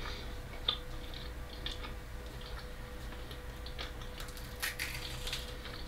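Quiet mukbang eating sounds: scattered soft clicks and crackles of a person chewing food, a few more of them near the end, over a faint steady hum.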